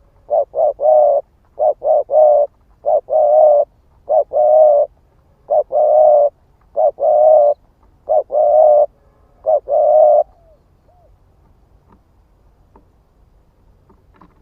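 Spotted dove cooing: a run of repeated coo phrases, each a few short notes ending in a longer one, which stops about ten seconds in, leaving only a few faint clicks.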